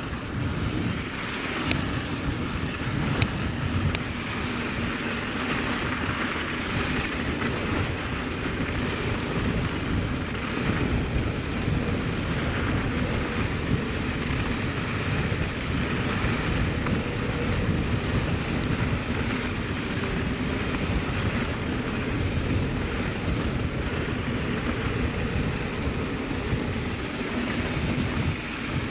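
Wind buffeting the microphone of a camera on a moving mountain bike, over the rumble of tyres rolling on a dirt trail, with a few brief knocks and rattles from the bike.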